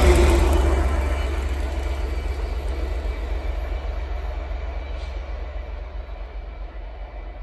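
Diesel freight locomotive at the tail of a tank-wagon train passing close and then running away into the distance. The rumble of the wheels and the engine's low drone fade steadily, with the engine's tone dropping slightly in pitch as it goes by.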